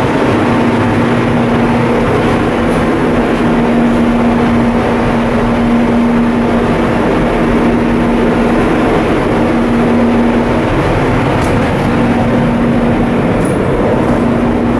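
A coastal cargo ship's diesel machinery running steadily: a loud, even drone with a constant hum.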